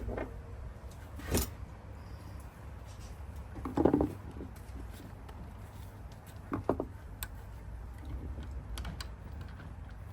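Hand tools and loose screws clicking and knocking against metal as screws are worked out of an electric scooter's rear wheel. There are a few separate knocks, the loudest about four seconds in, with small ticks between them.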